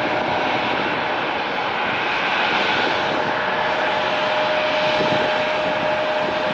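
Airliner engines running at takeoff power: a steady roar with a faint steady whine.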